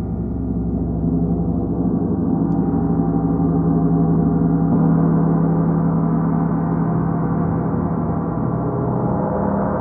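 A gong played as a continuous, swelling wash of sound: many overlapping tones that ring on without clear separate strikes, with a deep hum strongest at the bottom.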